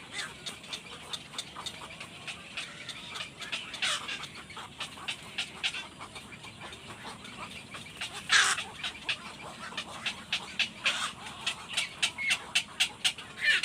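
Baby birds giving short, repeated high cheeps that come faster and louder toward the end, with two louder falling calls, one about four seconds in and one past the middle.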